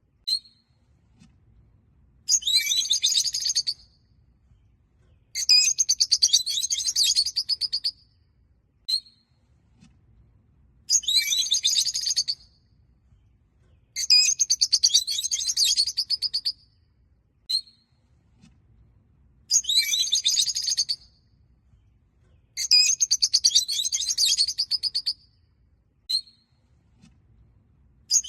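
Rosy-faced (peach-faced) lovebirds chattering. Bursts of rapid, high chirping notes lasting a couple of seconds each come every few seconds, with single short chirps in between.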